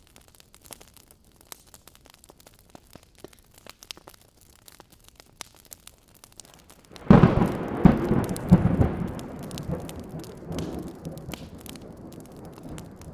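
Wood fire crackling faintly with scattered pops, then about seven seconds in a sudden loud thunderclap with several cracks that rolls on and slowly fades.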